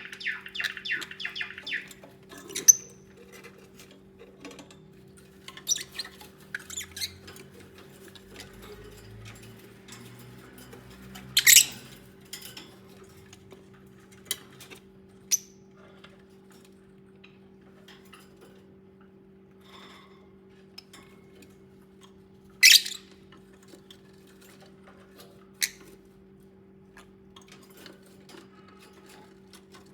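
Lovebirds: a burst of rapid chattering for the first couple of seconds, then scattered single short, sharp chirps and scratchy sounds, the loudest about a third and three-quarters of the way through. A steady low hum runs underneath.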